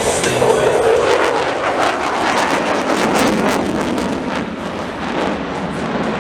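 Jet noise from Blue Angels F/A-18 Super Hornets flying past: a loud, steady roar with crackling, its main pitch sinking somewhat lower as the jets pass.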